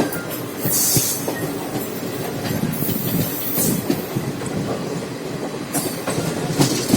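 Moving passenger train heard from inside the coach: a steady rumble of wheels on the rails with scattered clacks, and short bursts of hiss about a second in and near the end.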